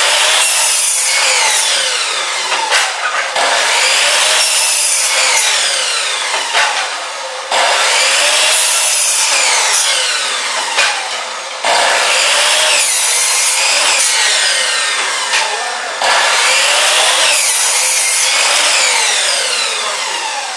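Electric chop saw cutting wood over and over: each run starts abruptly and then fades with a falling pitch, with a new cut about every four seconds.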